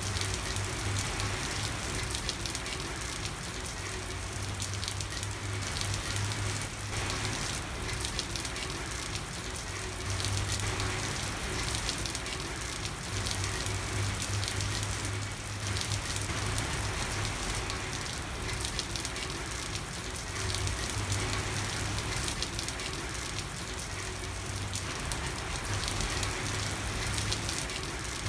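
Steady rain falling and pattering on a street, with a low rumble that swells and fades every few seconds.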